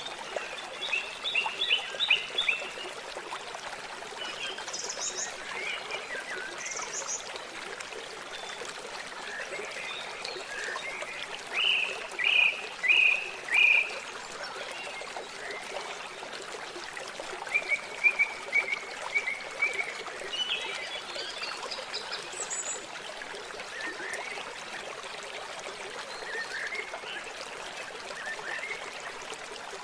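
Steady trickle and lapping of lake water, with birds calling in short runs of quick notes a few times, loudest about twelve seconds in.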